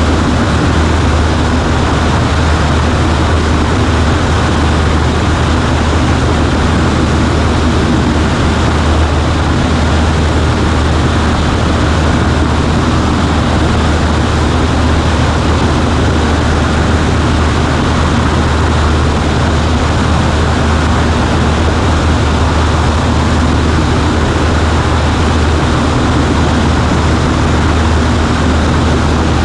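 Cessna 140A's piston engine and propeller running steadily, a loud unchanging drone with a strong low hum.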